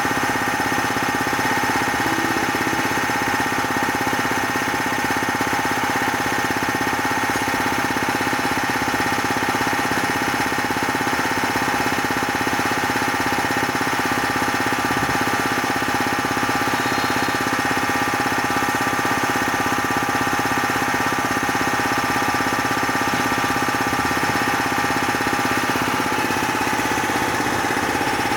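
Bauer 330-bar high-pressure piston compressor running steadily, a constant mechanical drone with several steady pitched tones.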